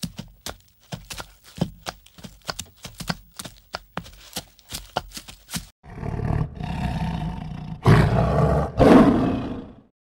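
A quick run of sharp, irregular clicks and crunches, then a tiger growling and roaring, with two loud roars near the end before it cuts off.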